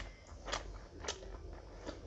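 Close-miked eating sounds: a person chewing a mouthful of rice and curry, with about three sharp wet smacks roughly half a second apart.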